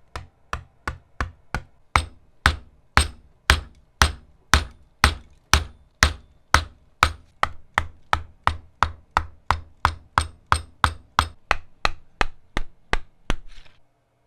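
A hammer striking steadily, with some two dozen sharp blows at about two a second, each ringing briefly. It stops shortly before the end.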